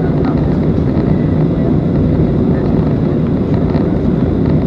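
Steady cabin noise inside a Boeing 737-300 on its descent: the loud, even sound of its CFM56-3 engines and the airflow over the fuselage, heaviest in the low range, with a faint thin high whine above it.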